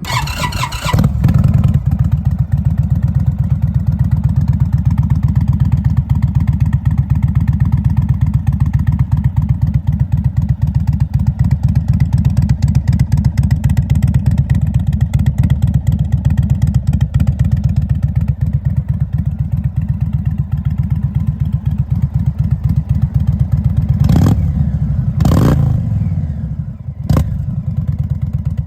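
Indian 116 Thunderstroke air-cooled V-twin breathing through Rinehart slip-on mufflers fires up, settles into a steady, loping idle, then is blipped three times with short throttle revs near the end.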